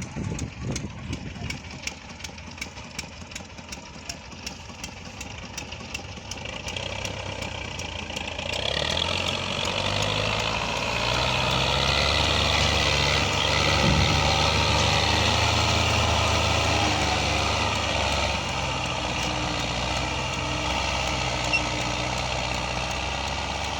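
Engine running, quiet at first with a fast regular ticking, then getting louder about eight seconds in and holding steady, easing off a little near the end.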